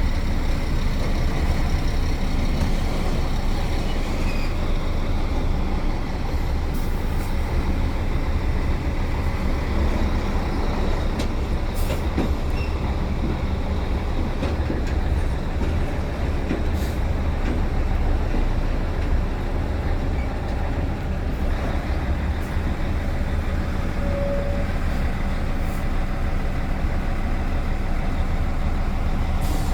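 Heavy truck running steadily with a constant low rumble and road noise.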